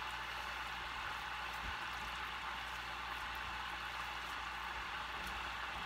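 Raw pork patty sizzling gently in melted butter in a skillet on low heat: a steady hiss with faint scattered crackles.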